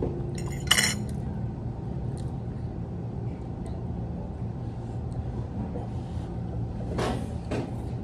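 Dishes and cutlery clinking during a meal: one sharp clink just under a second in and two more near the end, over a steady low hum.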